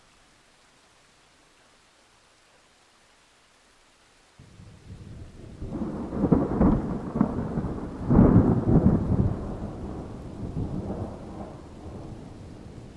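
Thunderstorm: a faint hiss of rain, then about four seconds in a roll of thunder starts suddenly, swells to two loud crashes a couple of seconds apart and slowly rumbles away.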